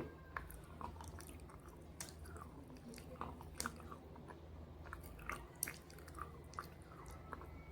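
A person chewing and crunching pieces of slate coated in red gravy: irregular, sharp, short crunches between quieter chewing.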